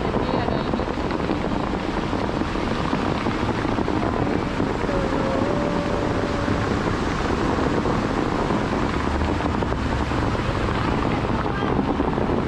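Steady rushing outdoor noise with a low rumble, with a faint short tone about five seconds in.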